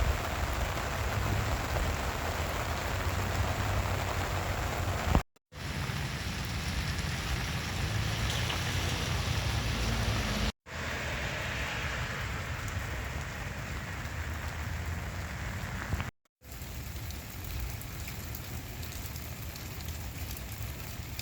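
Steady rain falling and pattering on surfaces, in four short stretches, each broken off by a brief moment of silence.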